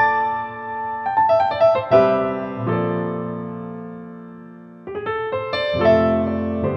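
Soft background piano music: gentle chords and short runs of notes, each cluster fading slowly before the next, with a fresh phrase about five seconds in.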